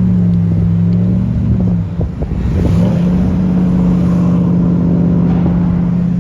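Car engine held at high, steady revs during a spin, dropping briefly about two seconds in and climbing back up to hold the pitch again.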